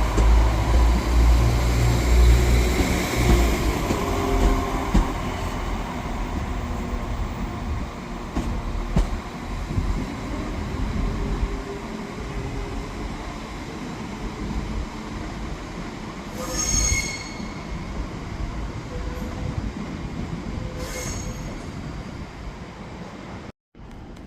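Train running past on the rails, its low rumble heaviest in the first few seconds and then fading. A short high-pitched wheel squeal comes about two-thirds of the way through, and a fainter one a few seconds later.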